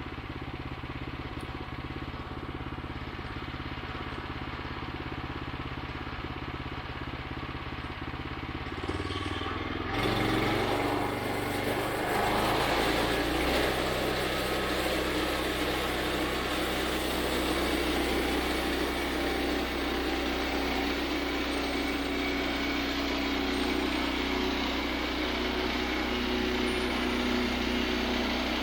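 Gasoline engine of a portable bandsaw sawmill running steadily at low speed, then throttled up about ten seconds in, after which it runs louder with a steady wash of noise from the band blade running.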